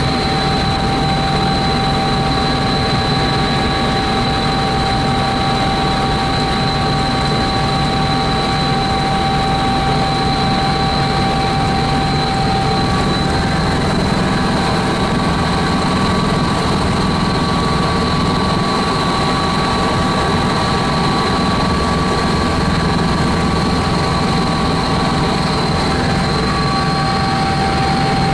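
Helicopter in flight heard from on board: steady engine and rotor noise with a constant high whine over it.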